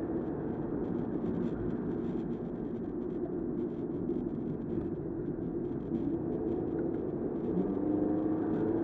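Car engine and road noise heard from inside the car: a steady rumble, with the engine's tone climbing in pitch near the end.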